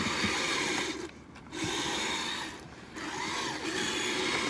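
Kyosho Blizzard RC snowcat's electric motor and track drive running in bursts, a whine rising and falling with the throttle. It cuts out briefly about a second in and again near three seconds.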